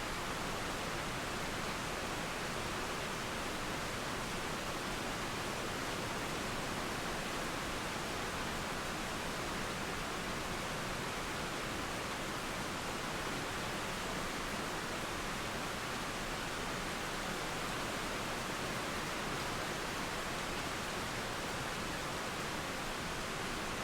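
Steady rain and running water making an even, unbroken hiss, with no thunder claps or birdsong standing out.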